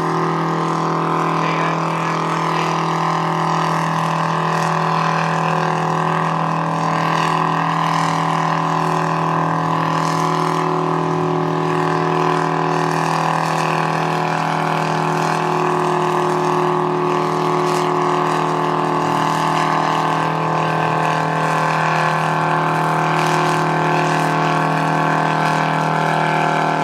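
Farm tractor's engine running hard at one steady speed while pulling a weight sled, its pitch holding constant throughout.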